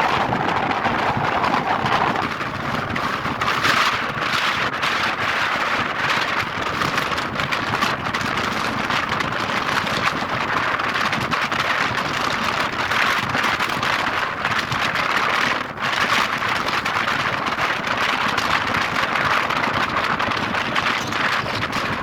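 Wind and road noise in a moving car driven with its top open: a steady rushing hiss, with one short dip about three quarters of the way through.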